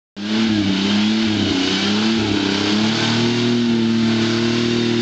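Off-road vehicle's engine revving under load, its pitch rising and falling for the first couple of seconds, then held higher and steady.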